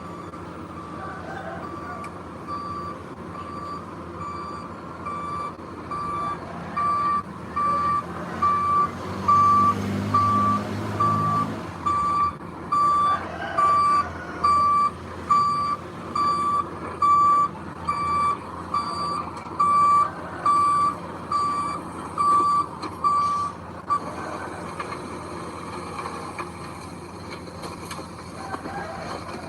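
A heavy vehicle's reversing alarm beeping steadily, about once every three-quarters of a second, over a diesel engine running. About ten seconds in, the engine grows louder with a hiss for a couple of seconds. The beeping stops about 24 seconds in.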